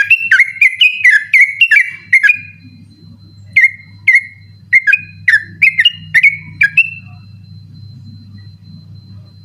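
Trucukan (yellow-vented bulbul) singing its rapid 'ropel' song: a fast, loud string of short whistled notes, each slurring downward, about three a second. The song breaks off after about two seconds, resumes a second later, and stops about seven seconds in. A low steady hum runs underneath.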